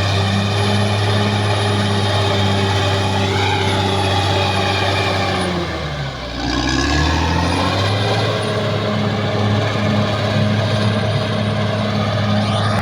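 Caterpillar D6R XL bulldozer's diesel engine running steadily. About six seconds in its pitch sags briefly, then climbs back up.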